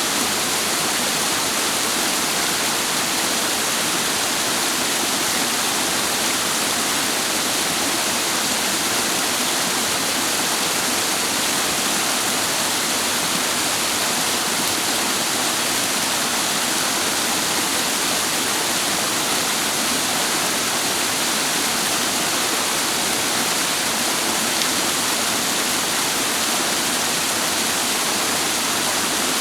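Clear mountain stream water cascading over rocks, a steady, even rush with no change.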